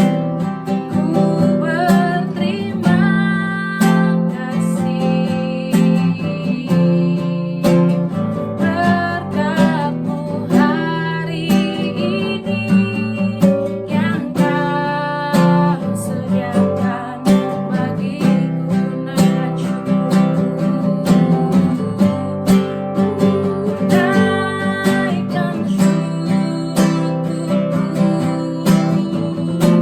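Praise song accompanied on a strummed acoustic guitar, with a melody line moving over the chords.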